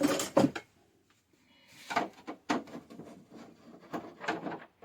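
A few short knocks and clatters of objects being handled, with a brief quiet gap about a second in.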